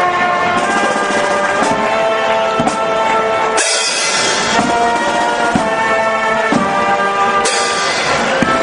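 Brass band music with steady held notes and a drum beat about once a second, with a cymbal crash about a third of the way in and another near the end.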